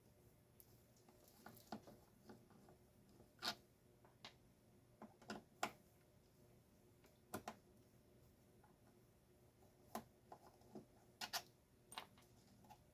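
Scattered sharp clicks and light knocks, about a dozen at irregular intervals, of parts and tools being handled while a garage door opener's gearbox and motor are taken apart.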